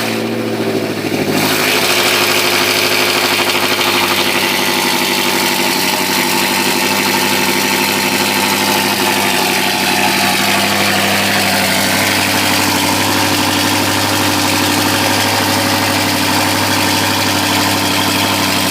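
BMW X5 M twin-turbo V8 through a full Supersprint exhaust with Eisenmann Race mufflers, idling steadily just after start-up. The note changes about a second in and then holds steady.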